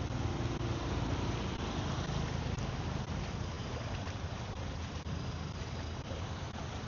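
Steady low rumble of vehicle engines in traffic on a flooded street, with a continuous wash of water noise.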